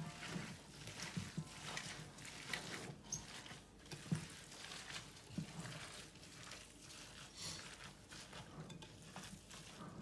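Faint, irregular crackling and clicking, with scattered small pops.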